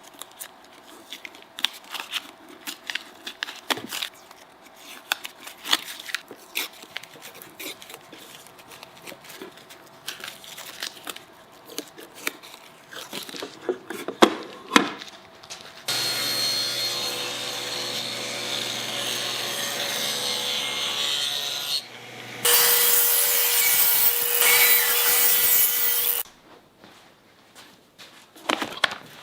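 Workshop handling noises, light wooden clicks and knocks, then a power tool working wood runs steadily for about six seconds, stops, and runs again louder for about four seconds before cutting off.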